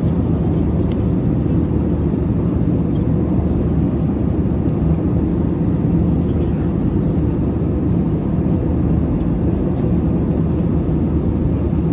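Steady in-flight cabin roar of an Airbus A321: engine and airflow noise heard from inside the passenger cabin, even and unchanging.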